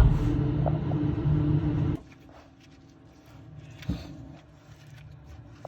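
Car engine running steadily, cutting off abruptly about two seconds in, followed by low background noise and a single knock near four seconds.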